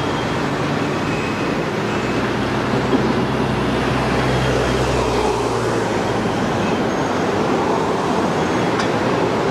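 A train passing, with a steady rush of wheel and rail noise and a low engine hum that dies away about halfway through.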